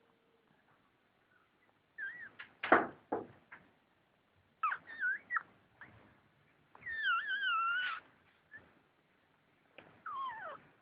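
Newborn cocker spaniel puppies squealing and whining in a few high, wavering cries, the longest held about a second, the last sliding down in pitch. A sharp thump sounds a little under three seconds in.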